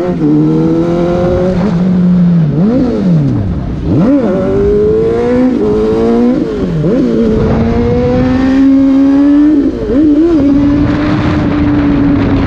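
Sport motorcycle engine pulling through the gears. Its pitch climbs and drops back several times, with a couple of quick rises and falls, then holds a steady cruise for the last five seconds or so.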